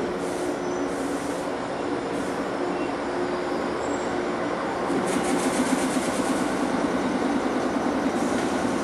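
Electric local train rolling slowly into the platform and braking to a stop. Its steady hum, with a rattle, grows louder about five seconds in.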